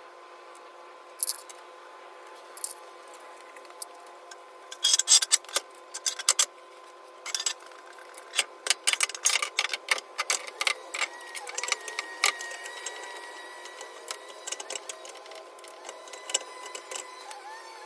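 Hand tools clicking and clinking on metal in irregular runs of quick clicks, the loudest cluster about five seconds in, over a faint steady hum.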